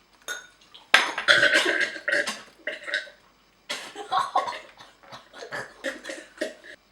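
People gagging, coughing and groaning in disgust at a mouthful that tastes really bad, in uneven vocal bursts with a short pause about halfway through.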